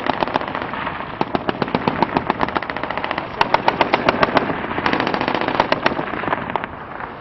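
Automatic machine-gun fire: long bursts of rapid shots, several a second, with short breaks, stopping about six and a half seconds in.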